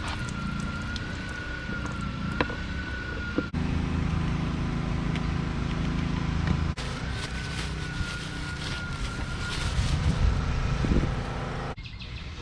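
Husqvarna riding mower's engine running steadily, with a thin wavering whine above it. The sound cuts abruptly three times, about a third of the way in, a little past the middle, and near the end, where it drops quieter.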